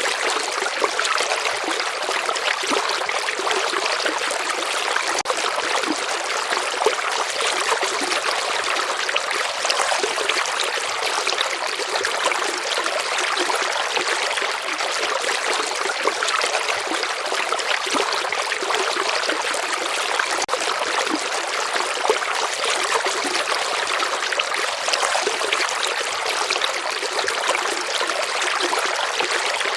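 Stream water flowing steadily, a continuous even rush with small trickling splashes and little deep rumble.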